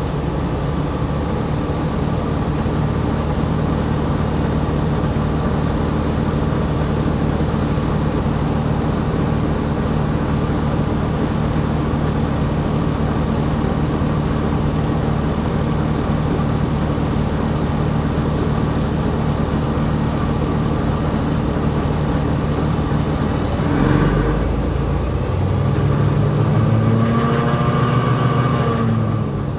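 2020 New Flyer XD60 articulated bus in motion, its engine and driveline droning steadily. About 24 s in there is a low thud, and near the end the engine's pitch rises and then falls again as it changes speed.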